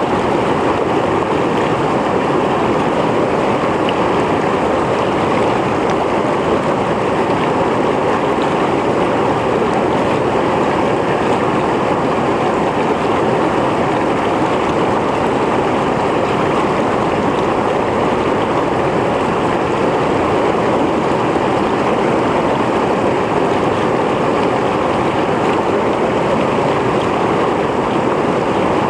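Mountain stream running steadily over rocks, a continuous rushing and splashing of water.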